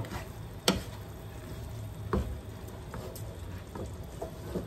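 Akabare chillies and spices frying in oil with a steady sizzle while a wooden spoon stirs them in a nonstick wok, knocking sharply against the pan about a second in and again around two seconds in.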